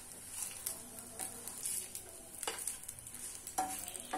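Vegetable patties (hara bhara kababs) shallow-frying in oil in a pan, with a steady high sizzle. A wooden spatula knocks and scrapes against the pan twice, in the second half, as the patties are turned.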